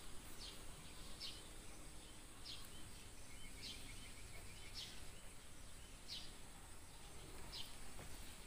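Faint outdoor ambience: a bird repeats a short, high chirp about once a second over a steady high hiss, with a brief faint rapid trill about three seconds in.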